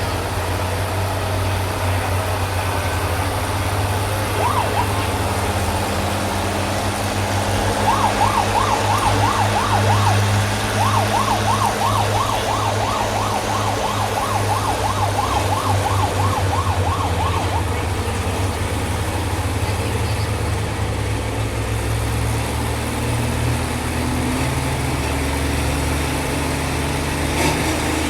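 Antique farm tractor engine working steadily under load, pulling a weight sled. From about 8 to 17 seconds in, a rapid warbling high tone sounds over it.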